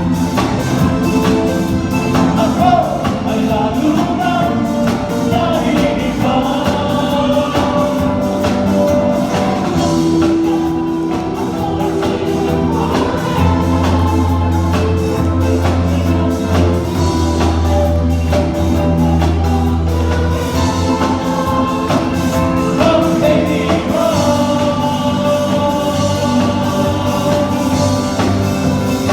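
Live band playing a disco song, with lead and backing vocals singing over a steady drum beat. A long low bass note is held in the middle.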